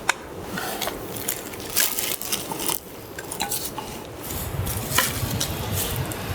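Metal utensils clinking, tapping and scraping against camp cookware, with a handful of sharp clinks at irregular moments.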